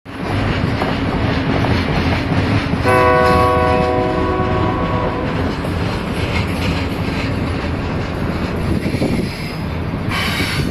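Union Pacific diesel locomotives hauling a long intermodal freight train, with a steady loud rumble of engines and rolling wheels. The locomotive horn sounds once, about three seconds in, held for about two seconds.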